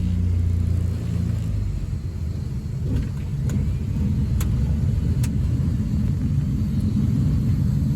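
Twin propeller engines of a Britten-Norman Islander in flight, heard from the cabin as a loud, steady drone with heavy low rumble. A few sharp clicks come about halfway through.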